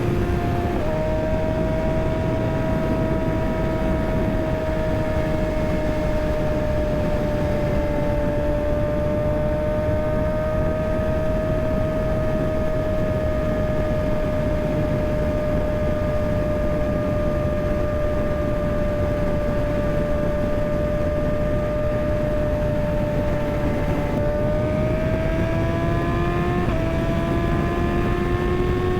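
Kawasaki ZX-6R sport bike's inline-four engine running under way with wind rushing over the microphone. The engine pitch drops at an upshift shortly after the start, holds nearly steady for most of the time, then climbs as the bike accelerates near the end, dipping briefly at another gear change.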